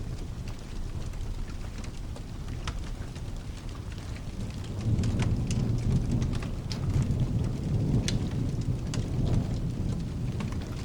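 Steady rain with rolling thunder: a low rumble swells about five seconds in and keeps rumbling. Scattered sharp crackles run throughout.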